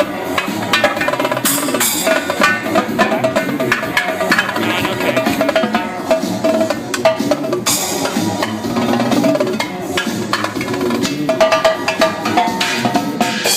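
Live drumming on a Mapex drum kit: rapid, dense snare and drum strokes played over a dance-music backing track.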